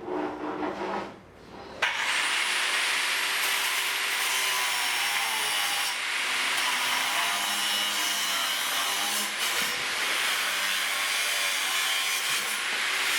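An electric power tool spins up about two seconds in and then runs steadily on wood, a continuous loud hiss with a faint shifting whine from the motor.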